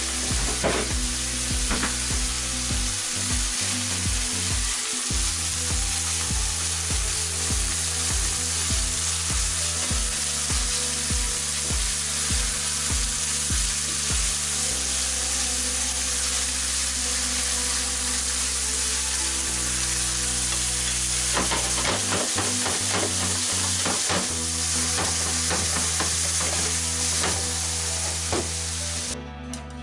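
Minced pork and Thai basil sizzling as they stir-fry in a nonstick frying pan, with a wooden utensil scraping and tapping against the pan as it stirs. The sizzle cuts off abruptly at the very end.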